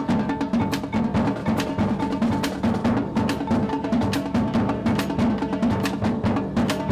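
High school marching band playing, the drumline's snare and bass drums hitting a steady beat over held low tones.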